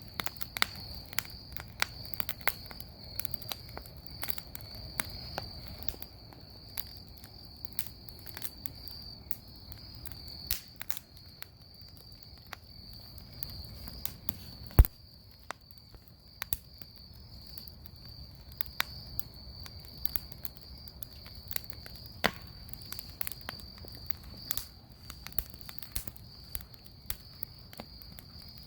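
Bonfire crackling, with irregular sharp pops and one louder snap about halfway through, over a steady high-pitched cricket trill.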